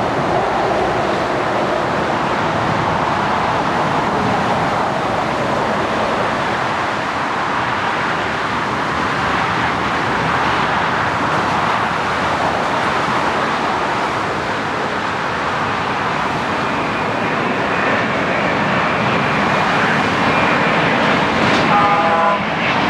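Jet noise from the Condor Airbus A330-900's Rolls-Royce Trent 7000 turbofans as the airliner passes: a loud, steady rush, with a faint high whine coming in about two-thirds of the way through.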